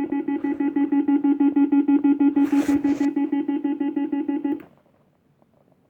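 Funworld Stars & Stripes fruit machine sounding a rapid pulsing electric buzzer tone, about ten pulses a second, which cuts off suddenly about four and a half seconds in. A brief rattle joins it around two and a half seconds in.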